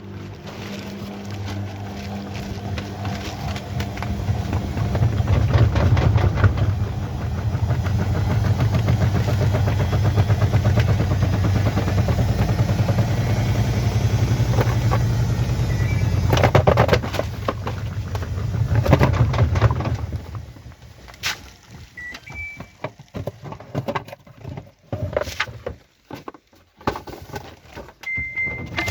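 Washing machine running with a steady low hum and a fast rattle, building up over the first few seconds and stopping about twenty seconds in, followed by scattered clicks and knocks.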